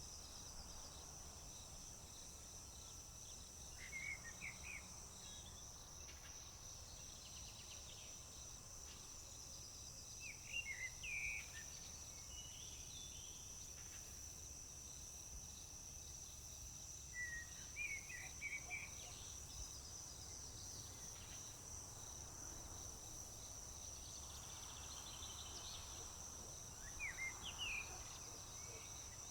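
A steady, high-pitched chorus of crickets chirping, with a bird singing a short phrase four times, several seconds apart.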